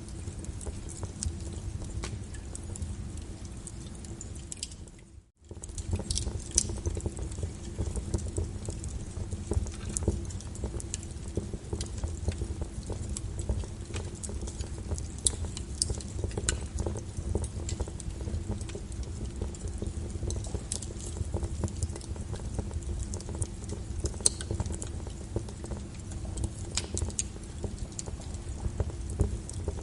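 Wood fire burning in a fireplace: a steady low rumble of flames with irregular sharp crackles and pops from the burning logs. About five seconds in the sound fades away and cuts out for a moment, then the crackling resumes.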